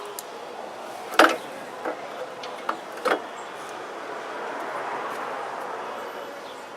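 Four sharp knocks and clinks in the first three seconds, the first the loudest, then a wash of noise that swells and fades.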